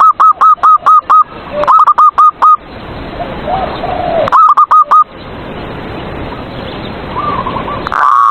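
Zebra doves (perkutut) singing: three quick runs of loud, clipped cooing notes in the first five seconds, with softer, lower coos between them and a fourth run starting near the end.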